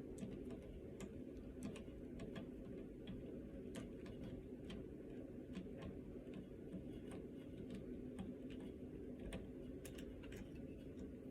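Irregular light clicks and taps of a hand tool and small plastic and metal parts being handled while a 3D printer's extruder assembly is unscrewed, over a steady low hum.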